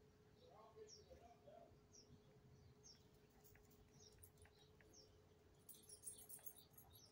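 Faint bird chirps, short and falling, repeated about once a second, over a quiet background with a faint steady hum. A brief faint rattle comes near the end.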